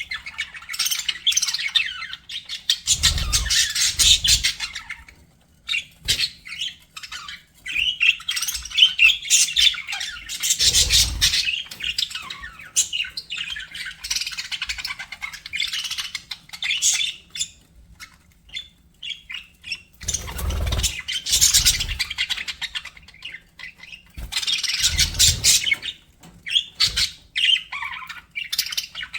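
Budgerigars chattering, warbling and squawking together in continuous overlapping chirps, with a few brief low thumps mixed in.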